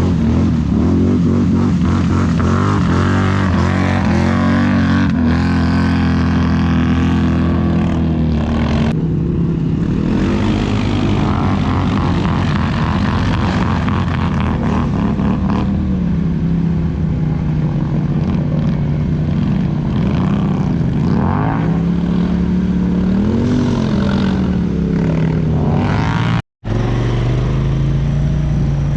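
Off-road vehicle engine running and revving, its pitch rising and falling, with a brief cut-out near the end.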